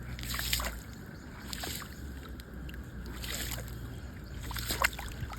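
Groundwater bubbling up out of a small hole and trickling away, an uneven run of gurgles and splashes over a low rumble.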